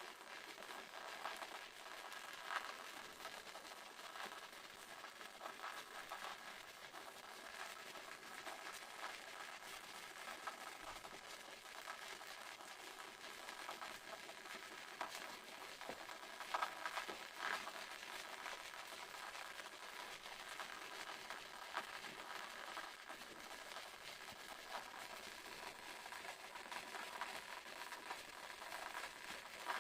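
Waterfall: a steady, faint rush of falling water with small splashy peaks now and then.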